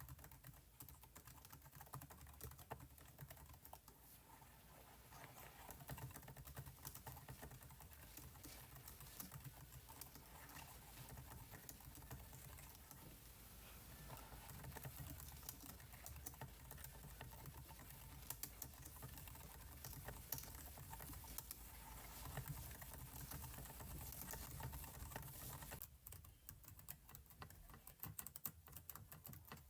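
Faint, irregular clicking of computer keyboard keys being typed, with a low hum underneath that drops away near the end.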